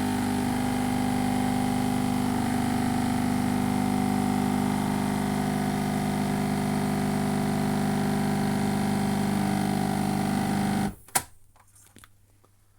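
Dolce Gusto Mini Me capsule machine's pump buzzing steadily as it forces hot water through a hot-chocolate capsule. It cuts off suddenly near the end, the drink finished, followed by a single click.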